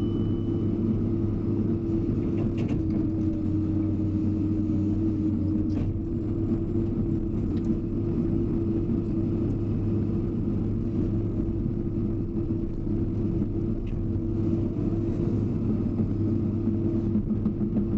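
Hydraulic excavator's diesel engine running steadily, heard from the operator's cab, its tone shifting slightly about six seconds in.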